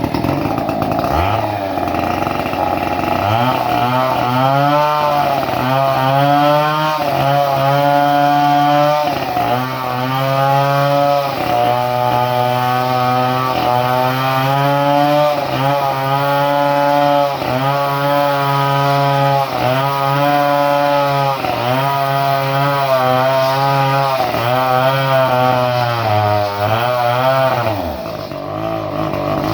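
Two-stroke chainsaw engine, fitted with a modified ignition, revving hard, with a short dip in revs every second or two and a drop toward idle near the end.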